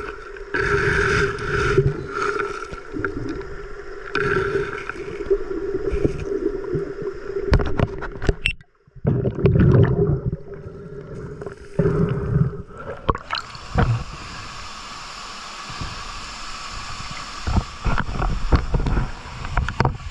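Water gurgling and splashing around a camera dipping in and out of water, with a steady hum and irregular rumbling bursts. About two-thirds of the way through this gives way to the steady rush of a waterfall.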